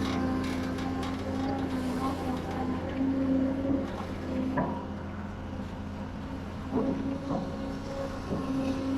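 Diesel engine of heavy construction machinery running steadily with an even drone, with a few brief sharper sounds about halfway through.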